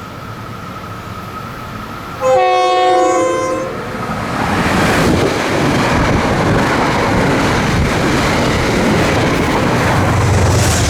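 A passenger train approaching and passing a station, sounding one chord-horn blast of about a second and a half about two seconds in. The blast is followed by loud, steady rolling wheel-on-rail noise as the train goes by.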